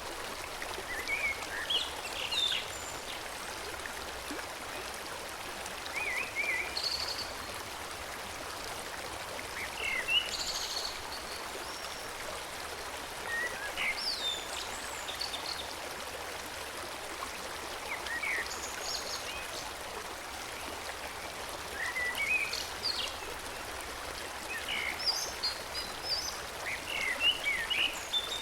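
Forest stream flowing steadily, with songbirds singing short chirping phrases every few seconds over the water.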